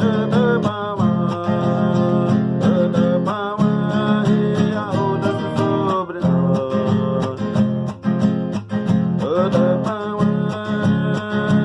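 Song with an acoustic guitar strummed in a steady rhythm and a voice singing a wavering melody over it.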